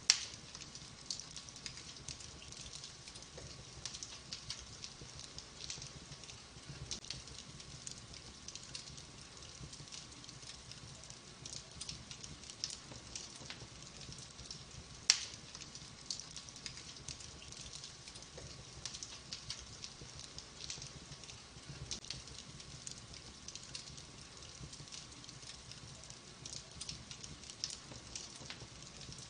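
Wood fire burning in a fireplace, crackling steadily with many small scattered crackles and two loud pops, one at the very start and one about halfway through.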